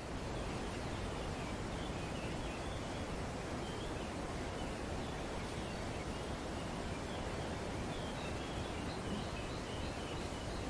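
Wind rustling through tree foliage as a steady hiss, with faint, short bird chirps scattered throughout.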